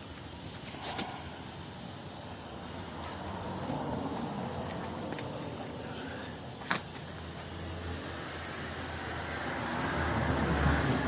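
Outdoor background noise with a steady hiss, likely insects, broken by two sharp clicks about a second in and near the middle. A low rumble builds toward the end.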